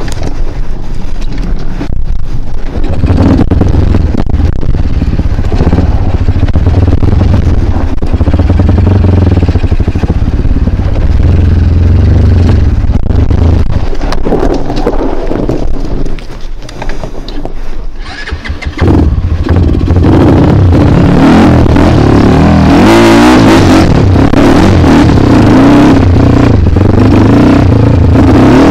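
Single-cylinder dirt bike engine revving hard under load on an off-road climb, the revs rising and falling with the throttle. The throttle eases off around sixteen seconds in, then the engine pulls hard again about three seconds later.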